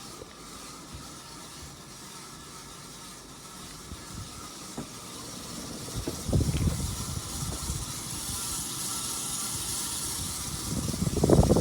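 1993 Casablanca Panama ceiling fan running on high with a steady airy hiss that grows louder partway through, and low rumbling bursts about six seconds in and again, louder, near the end. Its bearings are rusty, dry and worn, and the owner says they make really bad bearing noise.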